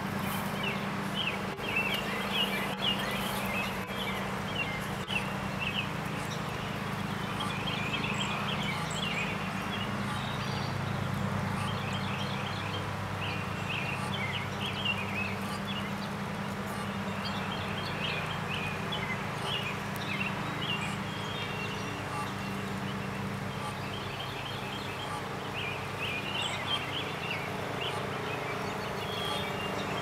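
Birds singing in short chirping phrases every few seconds over a steady low hum.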